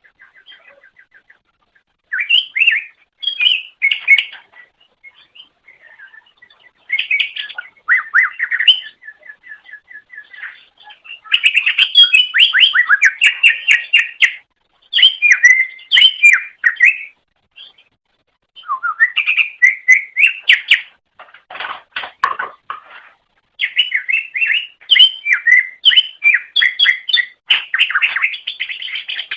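Cucak ijo (green leafbird) singing: bursts of fast, varied chirps and trills separated by short pauses, with a harsher, scratchier phrase about three-quarters of the way through.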